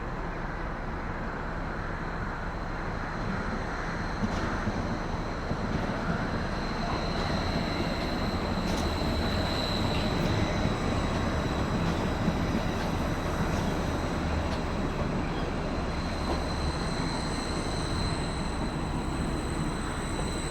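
Train running on the tracks: a steady rumble with a thin, high, steady whine that comes in about six seconds in.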